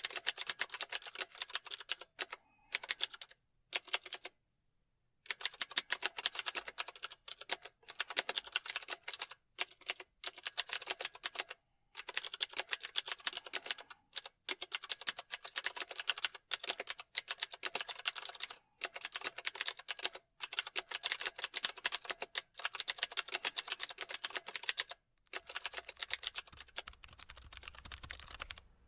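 Computer keyboard typing: quick runs of key clicks broken by short pauses, with one clear stop of under a second about four and a half seconds in. Near the end the typing turns quieter and duller.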